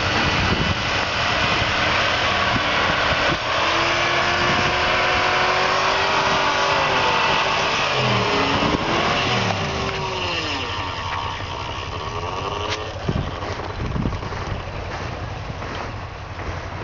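Chevy 1500 pickup's V8 engine revved hard and held bouncing off the rev limiter, then the revs fall away about eight seconds in and again after a brief blip about twelve seconds in.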